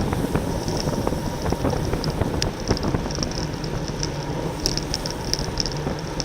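Wind rushing over a racing bicycle's onboard camera microphone at speed, with tyre and drivetrain noise, a fluttering high hiss that comes and goes, and scattered short clicks.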